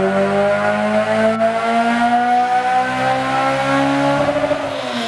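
Car engine running a pull on a chassis dynamometer, its revs climbing steadily under load, then dropping off near the end as the throttle is released.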